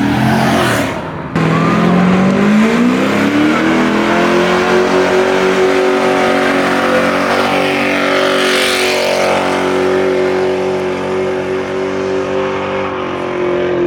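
Car engine revs up over about two seconds, then is held at high, steady revs for around nine seconds before dropping off near the end.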